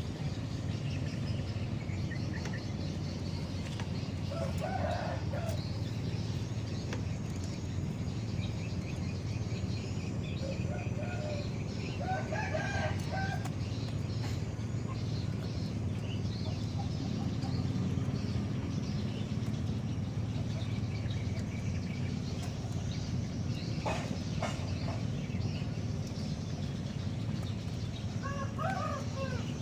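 A rooster crowing three times, about five seconds in, around twelve seconds in and near the end, with faint high bird chirps and a steady low hum throughout.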